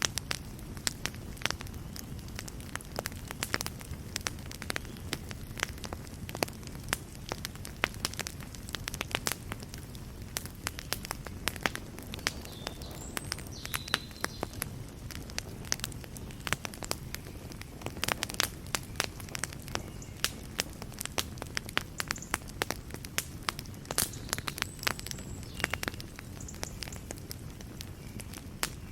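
Fireplace fire crackling: irregular sharp snaps and pops, several a second, over a steady low rumble of the flames.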